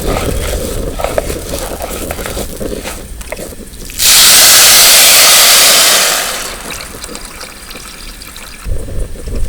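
A sudden loud rush of water lasting about two seconds, then fading out, like water poured or splashed out in one go. Light clicks and handling sounds come before it.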